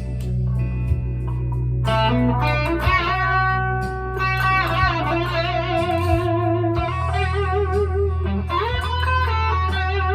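PRS SE McCarty 594 single-cut electric guitar playing long, sustained single notes with wavering vibrato over steady low notes ringing underneath.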